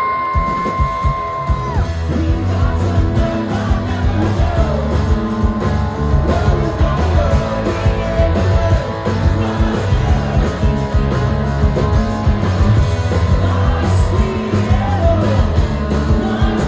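Live rock band playing a song with sung lead vocals over electric guitars, bass and drums. A steady high note is held for about the first two seconds before the full band comes in.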